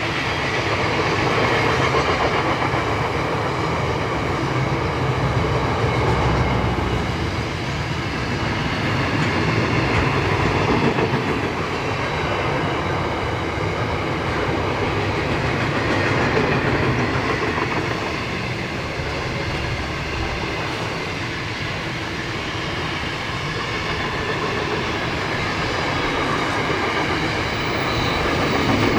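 A train rolling past on the line, a steady running noise that swells and eases every few seconds without a break.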